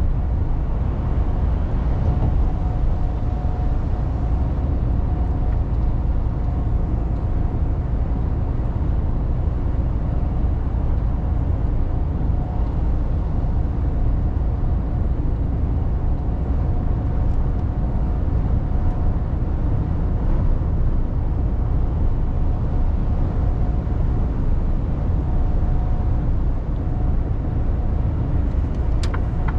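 Mercedes Actros truck on the move, heard from the cab: a steady low rumble of the diesel engine and road noise, with one sharp click near the end.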